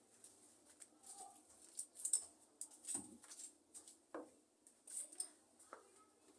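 Irregular small clicks, snips and scrapes, about one every half second, from hand work on a plant and its pot during repotting.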